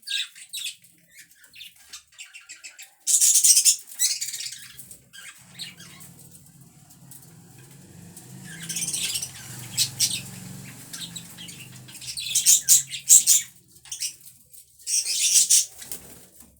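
Pet budgerigars: four bursts of wing flapping and rustling, with short clicks and faint chirps between them. A low hum runs through the middle.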